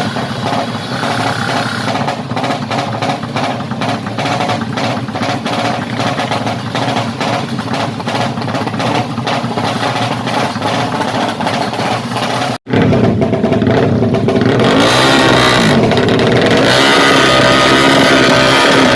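Yamaha MX King motorcycle engine, a fuel-injected single-cylinder bored out to 200cc, idling with an even lumpy beat of about three pulses a second. After a brief cut about two-thirds of the way in, it is louder and revved up and down several times.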